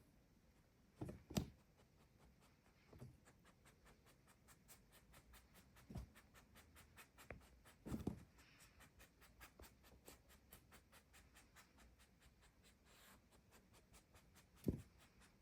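Near-silent room with a few soft thumps and rubs scattered through, the loudest one near the end.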